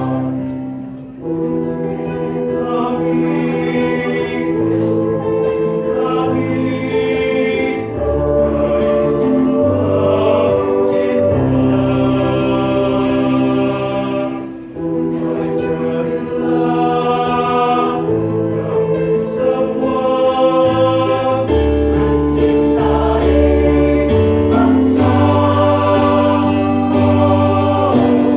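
A school choir singing in several parts, holding chords that move from phrase to phrase, with brief breaks between phrases about a second in and again around the middle.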